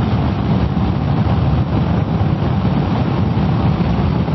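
Steady riding noise from a Kawasaki ER-6f motorcycle on the move: wind rushing over the helmet microphone, with the bike's engine and tyre noise underneath as a low, uneven rumble.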